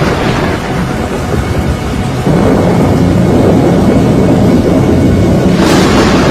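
Hurricane wind and rain: a loud, continuous deep rumble that grows louder about two seconds in, with a hissing surge of rain near the end.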